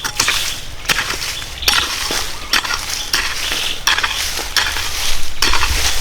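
Hand tool scraping and crunching into soil in repeated strokes, about one a second.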